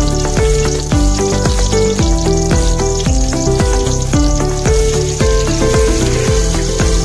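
Chopped onion and ginger sizzling in oil in a stainless steel pot as a spatula stirs them, under louder background music with a steady beat and bass line.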